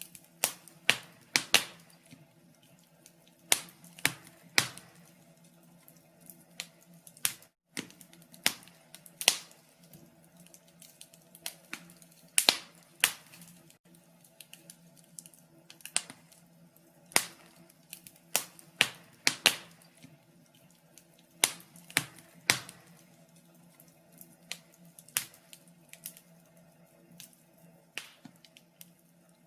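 Wood fire in a fireplace crackling, with irregular sharp pops and snaps, some in quick clusters, over a quiet background.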